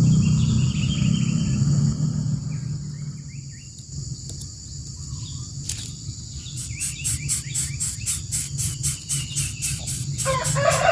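Steady high insect drone of crickets or cicadas over a low rumble. From about halfway, a rapid high chirping repeats about five times a second. Near the end a louder bird call begins.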